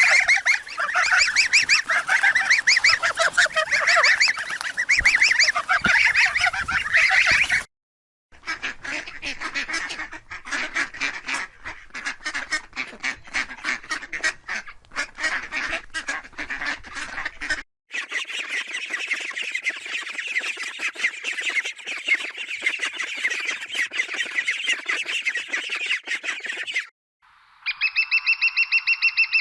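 Domestic geese and ducks with their young calling, in several short clips that break off abruptly one after another. Honking and dense calling gives way to rapid, sharp repeated calls and then high, continuous peeping.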